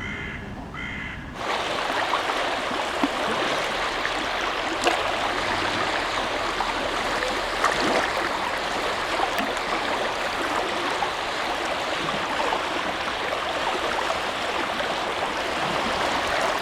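A crow cawing briefly at the start, then a steady rushing of flowing water that comes in suddenly about a second and a half in.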